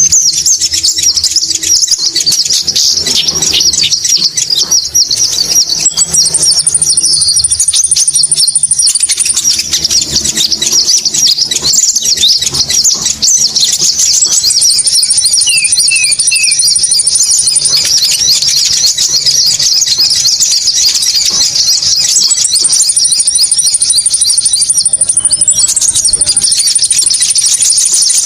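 Bird-lure recording of konin birds calling: a loud, dense, unbroken chatter of rapid high chirps. Over it a higher, thin trill comes in four times, each for two to three seconds.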